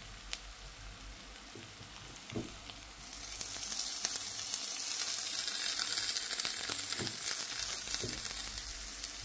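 Grated radish and fish mixture sizzling in oil in a non-stick wok while a spatula stirs it, with a few light scrapes of the spatula. The sizzle grows louder about three seconds in and stays steady after that.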